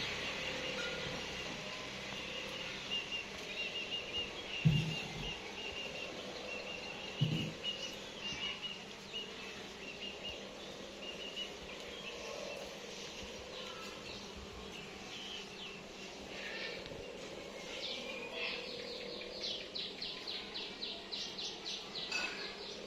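Small birds chirping outdoors in a long run of short, high, repeated calls, with two dull thumps about five and seven seconds in. Near the end comes a fast series of clicks, about five a second.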